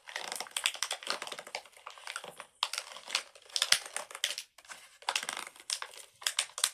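Crinkling plastic packaging being handled and pulled at while someone tries to open it, in several spells of dense crackling with short pauses between them.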